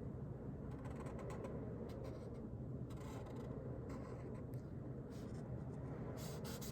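Faint scratchy strokes of a marker drawing on paper, coming in short runs with pauses, over a steady low room hum.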